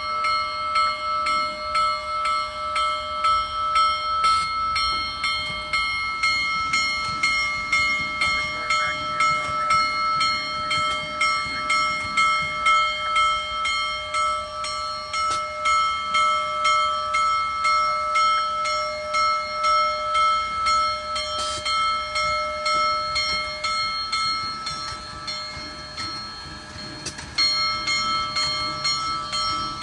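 Steam locomotive bell ringing with an even, repeated stroke as the Union Pacific Big Boy starts moving, the bell's signal that the engine is getting under way. It dips briefly near the end, then comes back louder.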